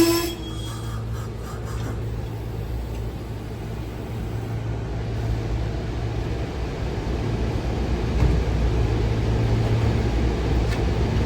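Steady low hum of a vehicle standing nearby, under an even background noise. It gets a little louder about eight seconds in.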